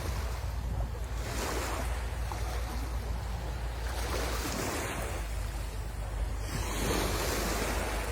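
Sea waves breaking and washing up the shore, with surges of surf about a second in, around four seconds in and again near the end, over a steady low rumble of wind on the microphone.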